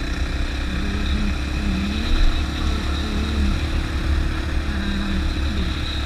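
Single-cylinder 450 dirt bike running under way, its engine note rising and falling with the throttle over a heavy low rumble.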